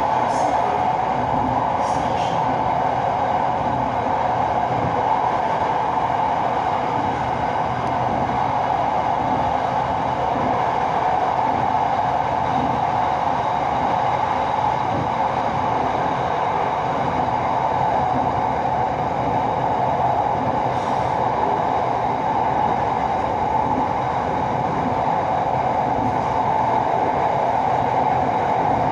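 Inside the carriage of an SRT Red Line electric commuter train running at speed on elevated track: steady running noise with a low hum, unbroken throughout.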